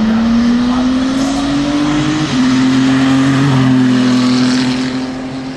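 Koenigsegg Jesko Attack Plus's 5.0-litre twin-turbo V8 accelerating hard: the engine note climbs, drops twice at upshifts about two and three and a half seconds in, then holds steady as it fades near the end.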